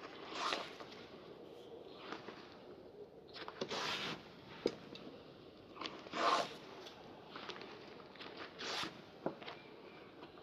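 Shoe-polishing strokes rubbing over a leather shoe: about four swishing strokes a couple of seconds apart, with small clicks and taps between them.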